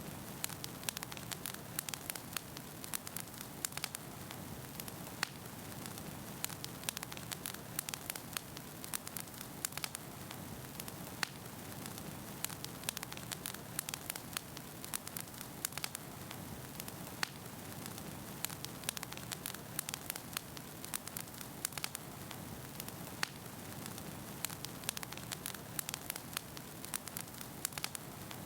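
Wood fire burning in a fireplace: a steady low rumble of flame with frequent sharp crackles and pops of the burning firewood scattered irregularly throughout.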